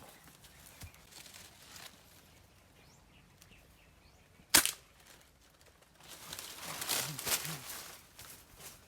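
A single sharp shot from a homemade PCP air rifle about halfway in. About a second and a half later comes a couple of seconds of rustling.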